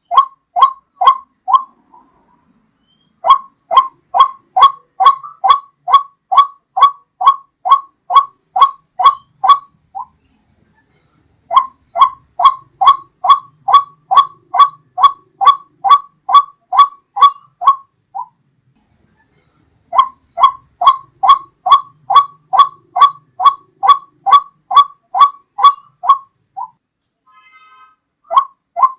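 White-breasted waterhen's repeated call: short notes about three a second, in bouts of about seven seconds broken by short pauses. This is a looped lure recording of the call.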